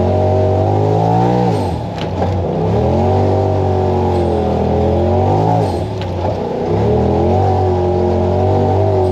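Side-by-side UTV engine running under throttle on the trail. Its pitch drops sharply twice, about a second and a half in and again near six seconds, as the throttle is let off, then climbs back as it is applied again.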